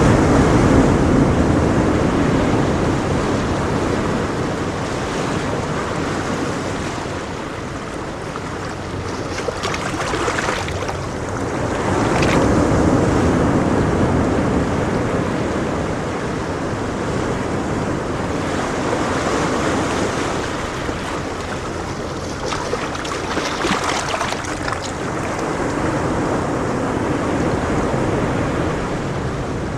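Sea surf breaking on a beach: a continuous rushing wash that swells and fades as each wave breaks and runs up the sand, with wind on the microphone.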